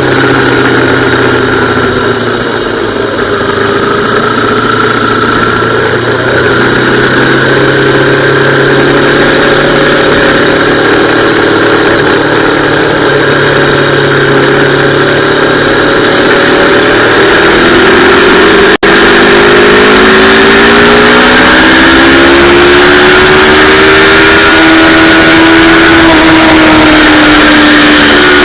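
Yamaha R3's parallel-twin engine running hard and loud, its note fairly steady at first, then from about two-thirds in rising in pitch as the bike accelerates and holding at high revs. The sound briefly cuts out for an instant just after the rise begins.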